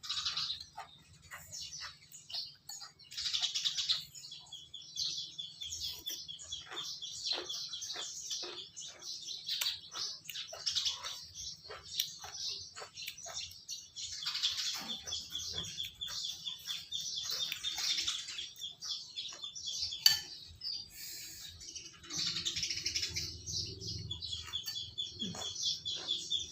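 Small birds chirping and twittering steadily, with a fast, even trill at one pitch running through much of it. Scattered short clicks and taps sound among the calls.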